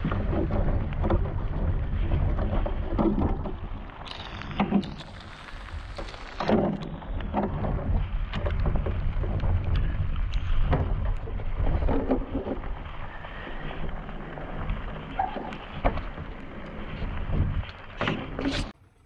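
Rain and wind rumbling on a body-worn action camera's microphone, with scattered knocks and rustles from handling a plastic cooler on the rocks.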